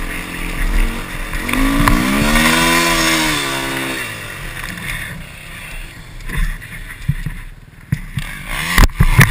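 Enduro motorcycle engine revving hard, its pitch rising and then falling about two seconds in. It then runs lower and rougher with scattered knocks, and revs again near the end.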